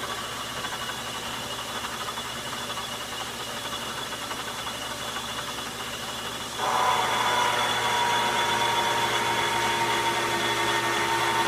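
Logan metal lathe running. About two-thirds of the way through it gets louder with a steady whine as the tool starts a roughing cut on the nut blank, a heavy load for the old lathe.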